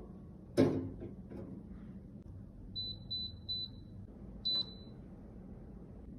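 A sharp clatter of something hard set down or knocked, then three short high electronic beeps in quick succession and, about a second later, a click with a fourth beep: button presses on a small electronic appliance.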